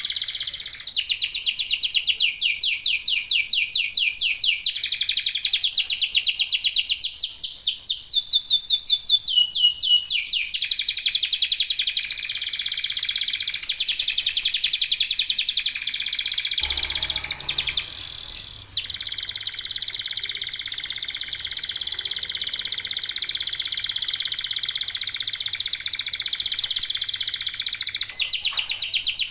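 Domestic male canaries in full song, pouring out long, fast trills and warbles, with several birds singing at once. The song breaks off briefly about 17 seconds in.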